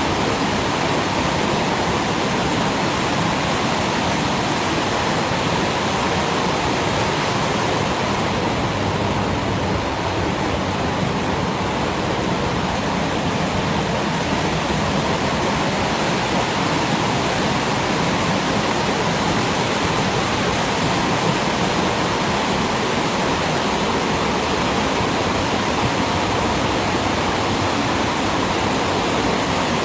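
Mountain river rushing and falling through a narrow gorge: a steady, loud roar of white water.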